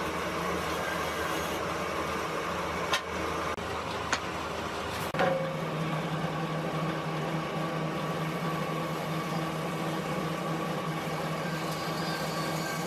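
A machine's motor running steadily, with a few sharp knocks. About five seconds in, its hum changes to a different, steadier low tone.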